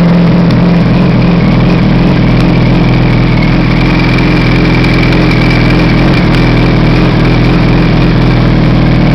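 Yamaha YZF-R1's inline-four engine idling steadily and loudly through a dual WR aftermarket exhaust tip.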